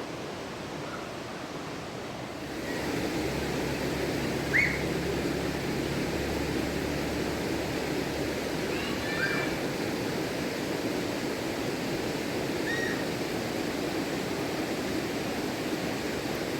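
Rushing river water, a steady rush that gets louder about two and a half seconds in, with a few short bird chirps over it.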